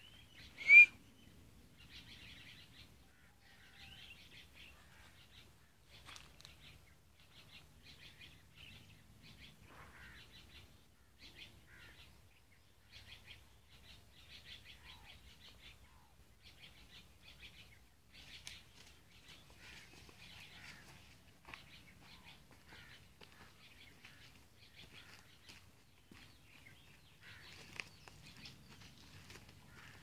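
Small birds chirping in quick, repeated bursts of rapid notes, with one sharp, much louder call about a second in.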